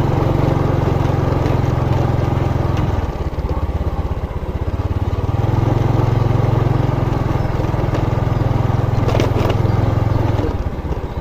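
Motorcycle engine running while riding, steady, easing off about three seconds in and picking back up about two seconds later.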